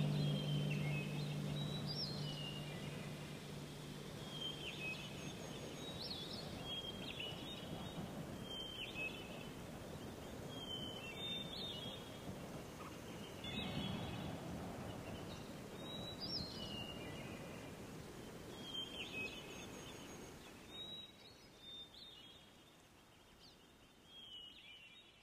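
Birds chirping: short calls repeated every second or two over a steady background hiss, fading out toward the end. A held musical note dies away in the first second.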